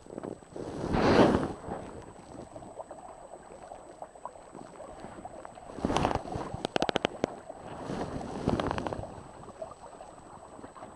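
Wind and water noise aboard a small sailing dinghy: swells of rushing noise, the loudest about a second in, with a quick run of sharp clicks near the middle.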